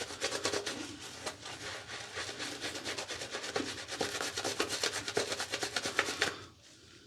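Synthetic-knot shaving brush working soap lather on the face: rapid, wet brushing strokes that stop about six seconds in.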